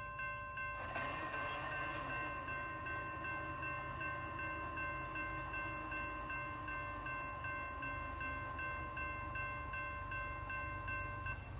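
Railroad grade-crossing bell ringing with a steady pulsing ding, about two to three strikes a second, that cuts off near the end, over a low steady rumble, with a rushing noise joining about a second in.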